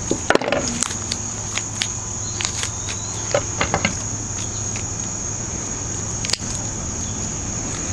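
Insects trilling in one unbroken, high, even tone, with scattered light clicks and taps in the first half and one sharper click about six seconds in.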